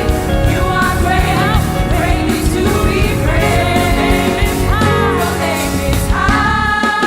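Live gospel praise and worship music: singers over a full band with drums and bass. About six seconds in, the bass and drums drop away while the voices hold long notes.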